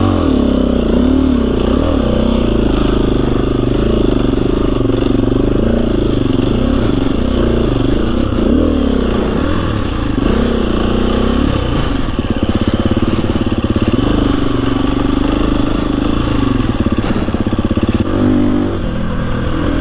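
KTM 350 EXC-F dirt bike's single-cylinder four-stroke engine, revving up and down again and again as the bike is ridden through deep snow, then settling to a steadier note after about twelve seconds.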